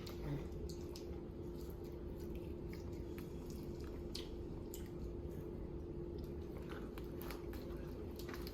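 Children eating, with faint chewing and scattered small clicks and crackles of food, over a steady hum.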